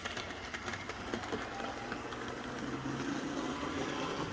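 Rivarossi H0 model steam locomotive running at full speed: the whir of its motor and gearing with scattered light clicks from the wheels on the track, getting slowly louder as it approaches.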